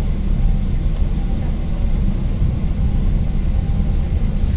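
Steady low rumble of an ŁKA 36WEd electric multiple unit running along the line, heard from inside the passenger car.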